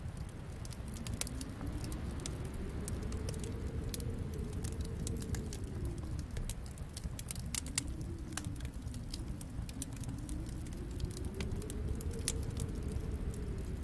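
Wood fire crackling in a fireplace: frequent sharp pops and snaps over a low steady rumble of flames, with a faint hollow whoosh that slowly swells and falls.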